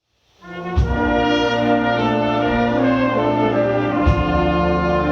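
A concert wind band comes in about half a second in with loud held brass chords, punctuated by two sharp percussion hits, one about a second in and one about four seconds in.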